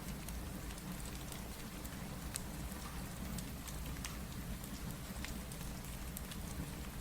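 Steady rain: an even hiss with a low rumble underneath, mixed with a fireplace whose crackles come as scattered sharp pops.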